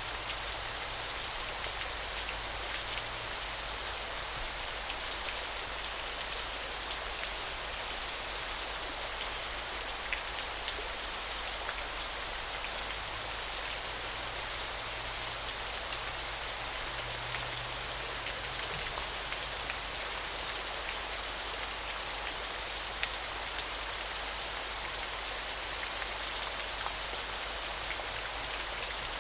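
Steady rush of running water with small patters. Over it, a high, thin buzzing trill repeats in stretches of one to two seconds with short gaps.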